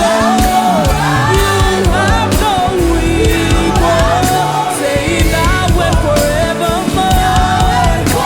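A praise and worship band playing, with a voice singing long, wavering notes over sustained bass and steady drums and cymbals.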